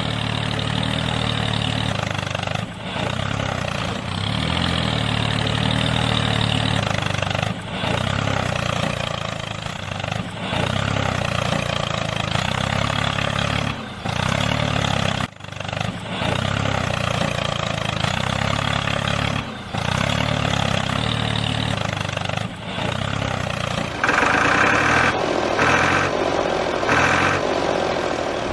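A mini tractor's small engine running steadily, broken by short dips every few seconds. Near the end, a few brief higher-pitched pulses sound over it.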